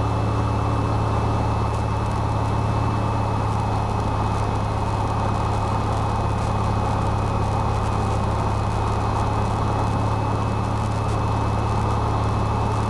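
Cessna 172's engine and propeller drone heard in the cabin, running steadily at constant power with no change in pitch or level.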